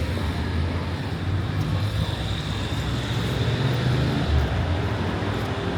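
City street traffic: a steady low rumble of car and bus engines passing and idling.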